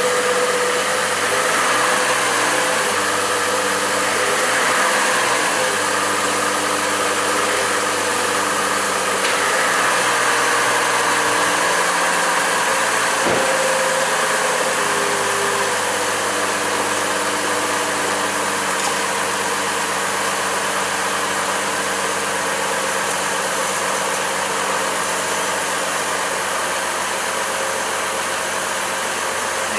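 Chevrolet Trailblazer's 4.2-litre inline-six idling steadily in park, running to warm a freshly refilled 4L60E automatic transmission for a fluid level check.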